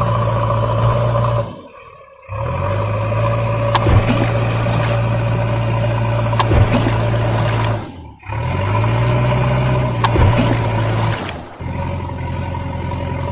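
A vehicle engine running steadily, dropping away briefly twice and coming back each time with a short rise in pitch, with a few light clicks.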